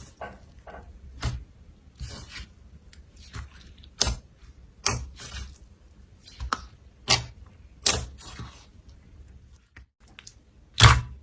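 Slime being pressed and poked, giving an irregular string of about a dozen short, sharp pops and clicks, the loudest near the end.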